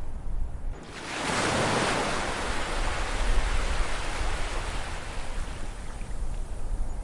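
Ocean waves on a shore: about a second in, a wave breaks with a rush of surf that slowly dies away over the following seconds, over a steady low rumble.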